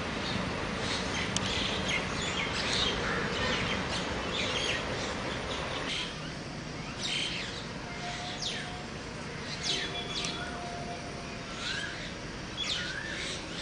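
Many birds chirping and calling, with short, sharp notes and quick downward-sweeping calls, over a steady rushing background noise that drops about halfway through.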